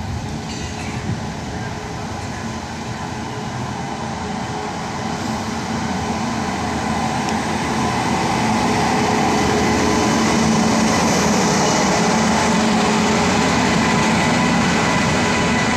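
Passenger train hauled by an Indian Railways electric locomotive running alongside a station platform, the steady rumble and rolling noise of locomotive and coaches growing louder over the first half as they draw level.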